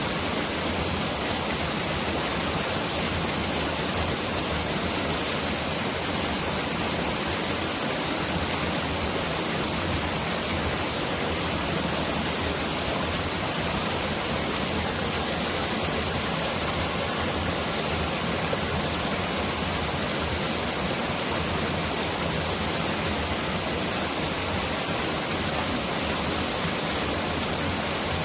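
Mountain valley stream rushing steadily, a dense, even hiss of water that sounds like a heavy downpour of rain.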